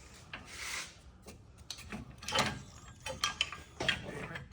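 Hand tools working on a vehicle's suspension: irregular clicks, clinks and short metal knocks with brief scraping.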